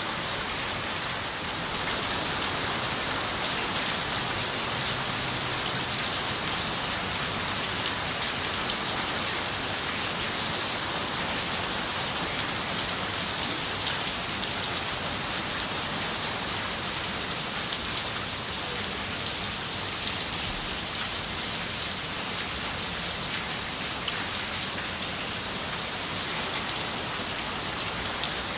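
Steady rain falling on a window: an even hiss with scattered single drop ticks.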